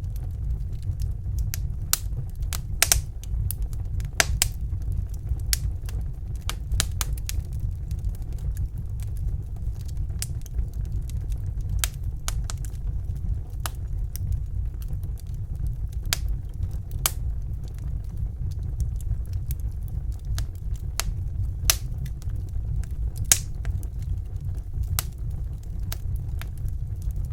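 Fireplace fire crackling: irregular sharp snaps and pops over a steady low rumble, with a few louder pops scattered through.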